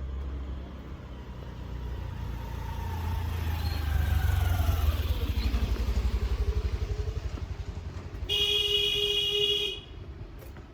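A motor vehicle passes close by, its engine rumble swelling and its pitch falling as it goes. Near the end a car horn sounds once, steadily for about a second and a half.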